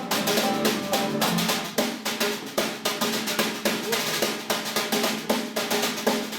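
Drum kit playing fast snare-drum rolls and rapid strokes, with some pitched notes sounding beneath the drumming.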